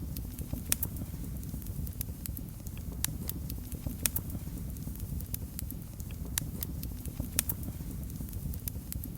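Wood fire in a fireplace crackling: sharp, irregular pops and snaps over a steady low rumble of the burning fire.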